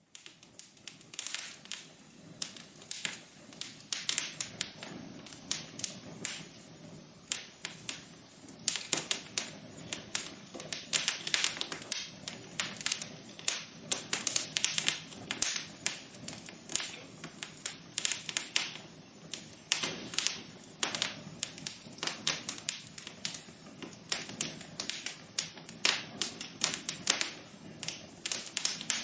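Wood fire crackling in a fireplace: a dense, irregular run of sharp pops and snaps over a steady low hiss of burning.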